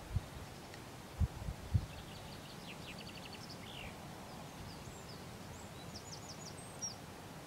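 Faint small-bird chirps and short rapid trills over a quiet open-field hush, with a few brief low thumps in the first two seconds.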